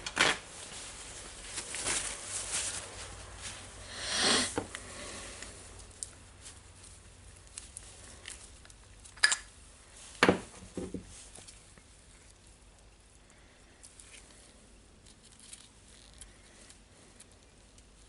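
Hand work on small tool parts: scattered clicks and knocks with a brief scrubbing rustle about four seconds in. Two sharp knocks come about nine and ten seconds in, and it is quieter near the end.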